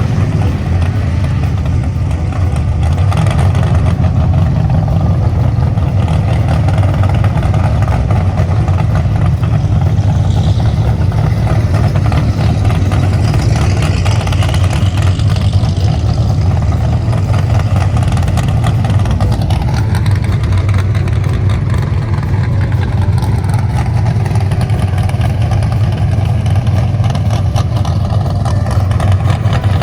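A car engine idling steadily, close by, with a deep, even rumble.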